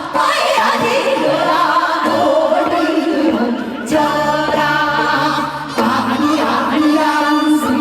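A woman singing live over band accompaniment, a sustained vocal melody in phrases with short breaths between them.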